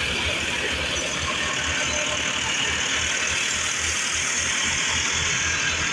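Tractor engine running steadily with an even low pulsing rumble, under a steady high hiss.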